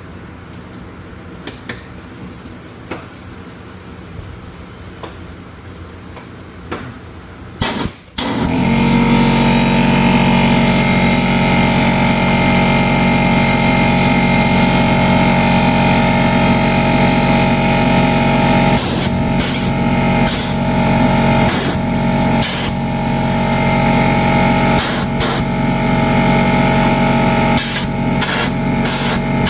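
Compressed air blasting from an air blow gun: light clicks and taps at first, then about eight seconds in a loud, steady hissing blast with a whistling tone. The blast drops out briefly several times near the end as the trigger is let off and squeezed again.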